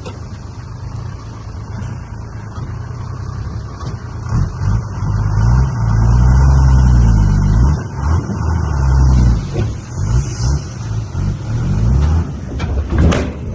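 Diesel engine of heavy earthmoving equipment running, its pitch rising and falling repeatedly as it revs under load, loudest about halfway through. A brief hiss near the end.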